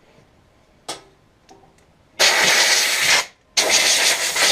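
Compressed-air blowgun blasting dirt off vacuum parts: two bursts of about a second each, a loud steady hiss that starts and cuts off sharply. A light knock comes about a second in.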